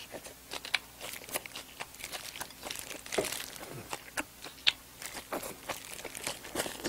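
Close-miked chewing of chive kimchi (buchu kimchi): irregular wet smacks and small crunchy clicks of the mouth eating.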